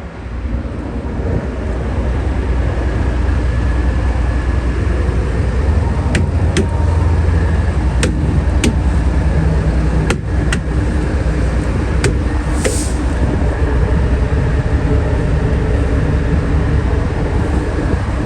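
Diesel truck engine running with a steady low rumble that grows louder over the first couple of seconds. Several sharp clicks and one short burst of air hiss about two-thirds of the way through.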